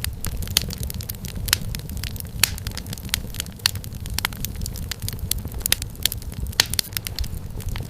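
Wood fire crackling in a fireplace: irregular sharp pops and snaps several times a second over a steady low rumble of the flames.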